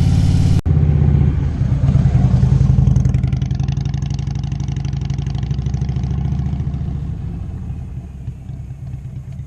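Motorcycle engine running on the move, briefly louder as it accelerates about two seconds in, then gradually fading down.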